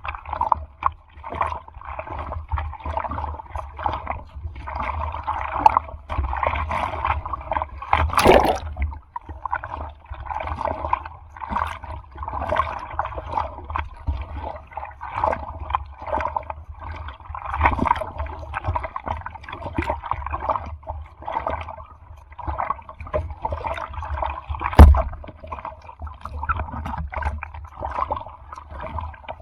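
Sea water sloshing and splashing close to the microphone in choppy surf, with a steady low rumble underneath. Two sharp splashes or knocks stand out, about eight seconds in and near the end.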